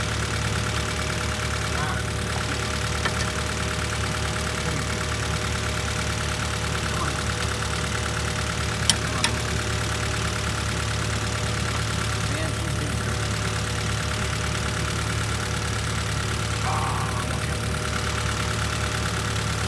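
Honda Civic engine idling steadily while one of its air lines is pulled off and plugged. Two sharp clicks come about nine seconds in.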